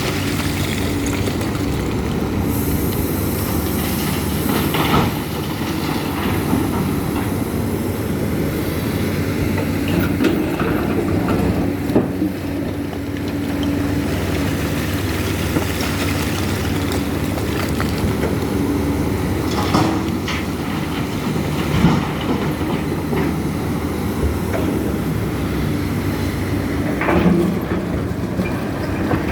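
Case CX300C excavator's diesel engine running steadily while the machine digs and loads, with occasional clanks every few seconds.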